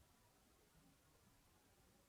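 Near silence: faint, even background hiss with no distinct sound.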